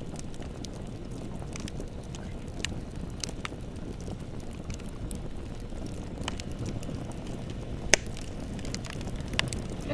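Bonfire burning: a steady low rumble of flames with scattered sharp crackles and pops, one much louder pop about eight seconds in.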